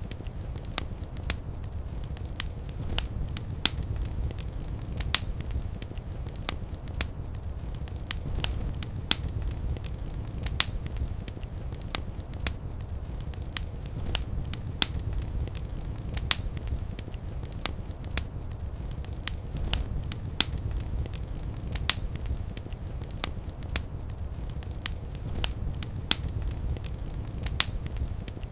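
Wood fire burning in a fireplace: a steady low rumble of flames with sharp crackles and pops at irregular moments, a few each second.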